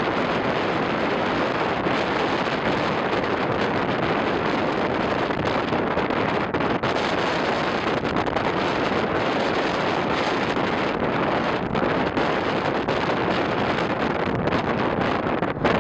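Wind rushing over the microphone: a steady, dense hiss with no break.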